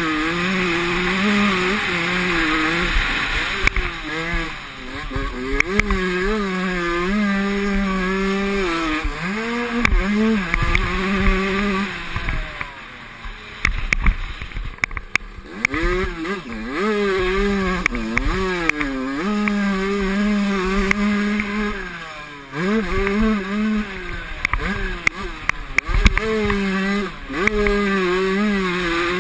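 Motocross motorcycle engines revving hard, the pitch climbing and dropping again and again as the riders work the throttle and gears, with a quieter stretch about halfway through.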